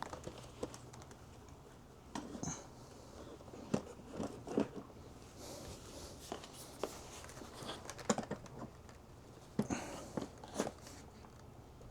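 Scattered light clicks, taps and crinkling as the plastic parts of a cordless wet-dry vacuum and its accessories are handled and fitted together.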